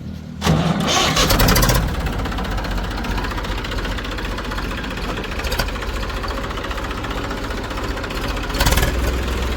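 Heavy machine's diesel engine running, growing suddenly louder about half a second in, then running steadily, with another brief rise in level near the end.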